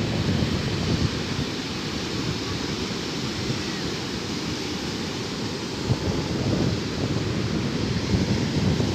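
Sea surf washing steadily on the shore, with wind buffeting the microphone in a low, gusty rumble.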